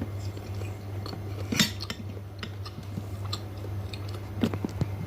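Close-up eating of bakso meatball soup: chewing, with a spoon clicking against the bowl, the sharpest click about a second and a half in and a few more near the end, over a steady low hum.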